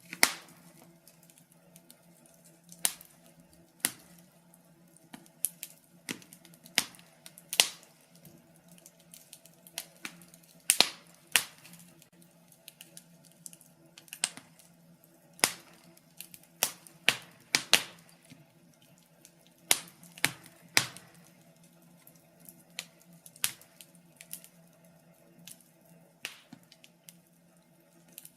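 Wood fire burning in a fireplace, crackling with irregular sharp pops and snaps, some much louder than others, over a faint steady low hum.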